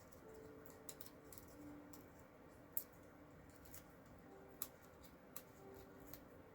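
Quiet handling of cardstock and paper-craft pieces on a table: a few soft, sharp clicks and taps spread through a near-quiet room.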